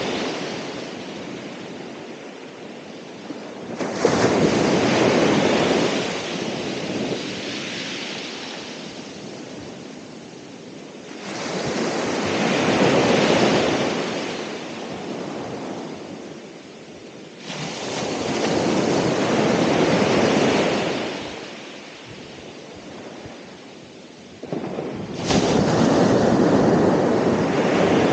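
Ocean surf breaking in a slow rhythm: a wave crashes roughly every six or seven seconds, each surge swelling and then fading away before the next, the first and last crashing in suddenly.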